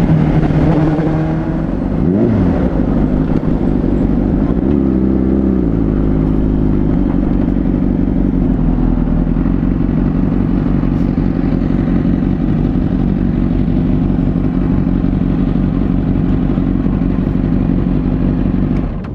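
Honda CBR600RR's inline-four engine under way: its pitch falls at the start, rises and drops twice in quick succession around two and five seconds in, then holds a steady cruising note with road and wind noise.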